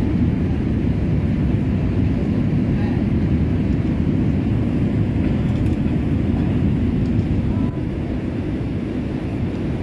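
Steady low rumble of an airliner's engines and airflow heard from inside the passenger cabin in flight.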